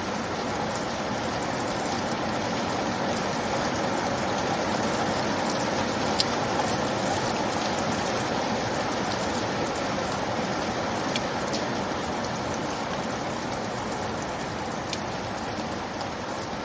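Steady rain falling: an even hiss with a few sharp drip ticks now and then.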